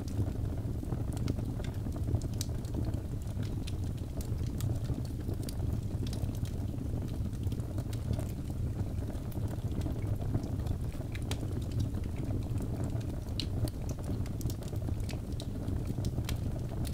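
Wood fire burning in a fireplace: a steady low rumble of flames with scattered sharp crackles and pops from the burning logs at irregular moments.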